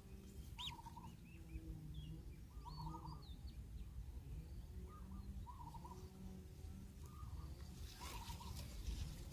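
Birds calling: a short wavering call repeats about once a second, with brief higher chirps over it in the first few seconds. A rustling scrape comes near the end.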